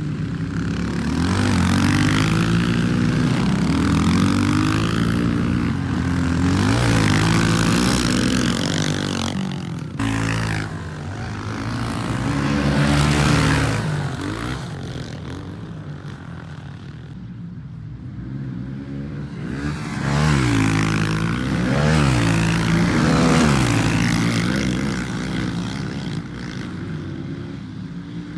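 Pit bike engine revving up and down as it is ridden around a dirt track, the pitch climbing and dropping again and again through gear changes, jumps and corners, with a sudden break about ten seconds in.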